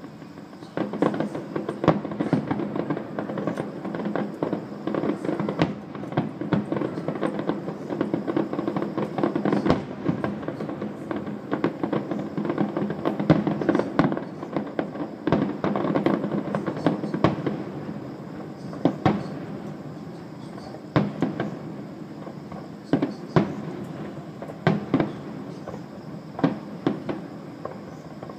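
Distant aerial fireworks display: a dense run of overlapping bangs and crackles with a continuous rumble, thinning about two-thirds of the way through into single bangs every second or two.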